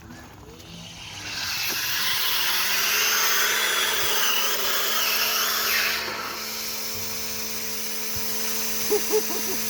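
A motor-driven machine starts about a second in and runs with a steady hum under a loud hiss, easing slightly about six seconds in.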